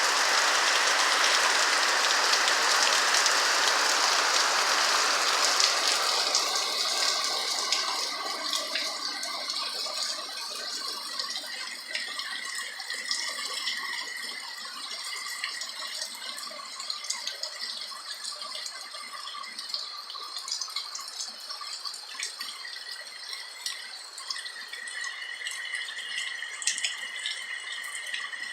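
Rain on a roof, a heavy dense patter at first that eases after about six seconds into a lighter, uneven patter of individual drips and ticks.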